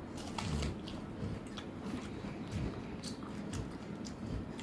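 Close-miked eating: chewing and wet lip smacks of a mouthful of rice and chicken curry, as a series of short smacking clicks, with fingers squishing rice in curry on a steel plate.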